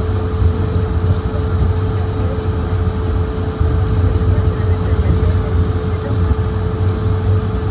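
Steady cabin noise inside an Airbus A220-100 on the ground before takeoff: a low rumble with one steady mid-pitched hum over it.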